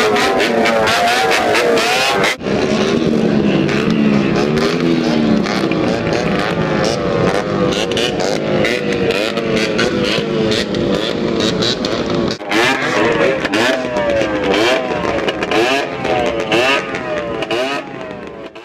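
A crowd of motorcycles with altered mufflers revving their engines together, very loud, with many engine pitches rising and falling over one another. The sound drops out briefly twice and cuts off abruptly at the end.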